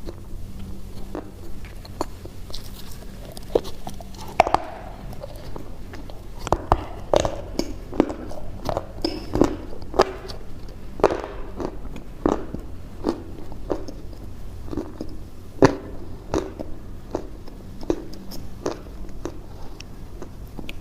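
Close-up crunchy chewing: irregular sharp crunches of something hard and crisp being bitten and chewed, sparse at first and coming about once or twice a second from about a third of the way in, over a steady low hum.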